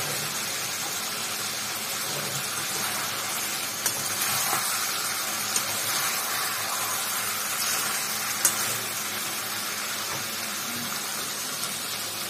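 Chicken pieces and spice paste sizzling steadily in a hot kadhai while a flat spatula stirs them, with a few short clicks of the spatula against the pan.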